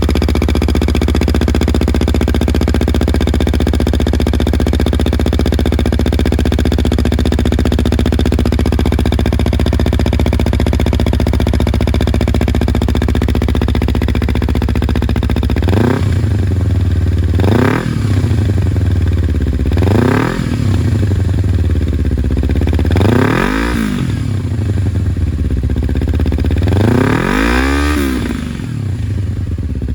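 Honda CBR250RR MC51 parallel-twin engine breathing through a Yamamoto Racing titanium full exhaust system. It idles steadily, then from about halfway is revved in several quick throttle blips, each rising in pitch and falling back to idle.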